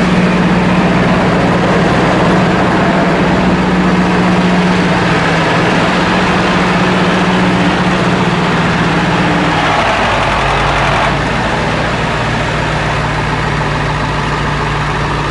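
A 2001 International 4700 dump truck's 7.3-litre T444E V8 diesel running steadily at idle. Its note drops lower about ten seconds in.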